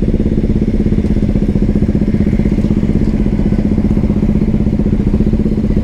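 Hero XPulse 200 4V's single-cylinder engine idling through an SC Projector aftermarket exhaust: a loud, steady, even run of exhaust pulses with no revs.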